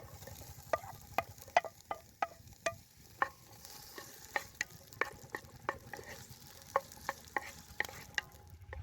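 A utensil stirring food in a frying pan, knocking against the pan about two or three times a second over a faint sizzle.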